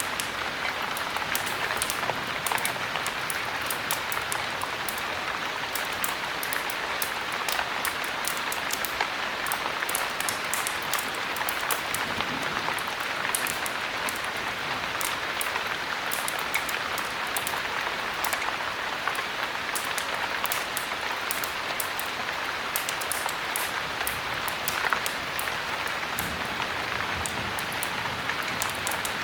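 Heavy rain falling steadily, a dense, even hiss, with frequent sharp ticks scattered through it.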